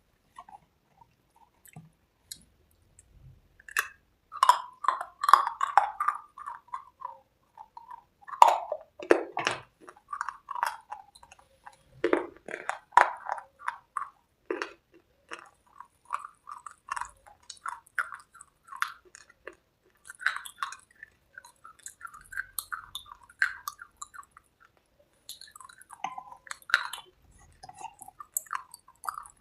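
Close-up chewing and crunching of hard chalky cubes and red slate paste: irregular crisp crunches and wet mouth sounds that begin about four seconds in and go on in bursts with short pauses.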